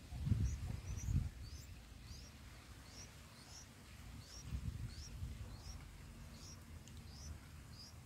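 Bulbul nestlings begging while the parent feeds them: a steady run of short, high chirps, about two a second. A low rumble rises over them in the first second and again near the middle.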